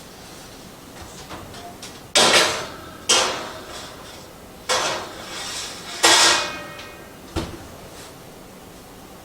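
Four loud clanks of kitchen metalware being handled, each fading over about half a second, the last with a faint ring, followed by a light click.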